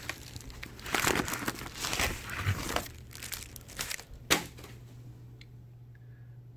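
Plastic packaging crinkling and rustling as a replacement laptop display panel is handled, with a single sharp click a little after four seconds in, then quieter handling.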